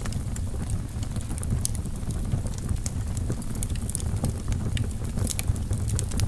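Wood fire burning in a fireplace: a low steady rumble of the flames with frequent sharp, irregular crackles and pops from the burning logs.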